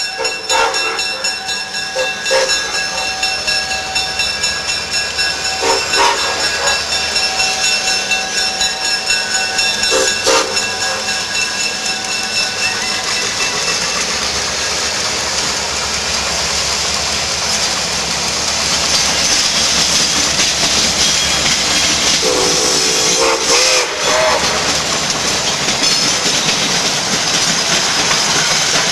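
Nickel Plate Road 765, a 2-8-4 Berkshire steam locomotive, working a train with a rapid rhythmic exhaust beat and the hiss of steam. Steady whistle-like tones sound through the first half. Later the sound becomes a louder, more even rush of steam and train noise.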